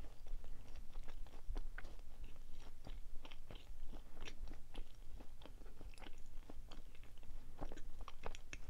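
A person chewing close to the microphone, eating a chocolate-coated marshmallow sweet: irregular wet mouth clicks and soft crunches.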